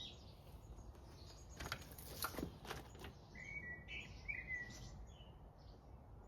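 Faint bird chirps over a low background hum, with a few sharp clicks or knocks about two seconds in.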